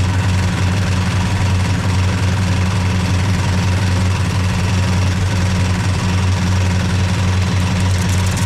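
Dodge Charger's big-block V8 idling steadily.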